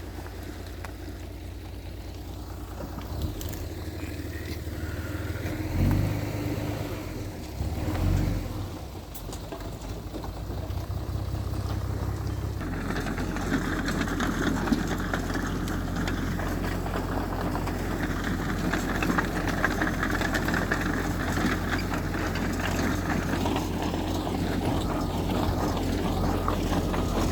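Heavy diesel machinery engine running steadily, with two short louder surges about six and eight seconds in. About halfway through it grows louder and harsher, as if working under load.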